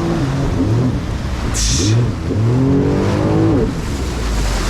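Personal watercraft (jet ski) engine revving under throttle, its pitch rising and falling several times, with a short hiss of spray about a second and a half in.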